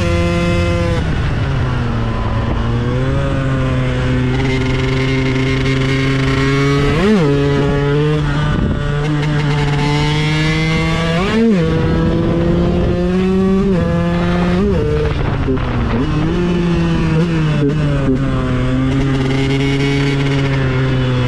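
KTM 125 EXC supermoto's two-stroke single-cylinder engine running under way, holding a steady pitch for long stretches. It drops in pitch near the start and has several quick swoops up and down in revs.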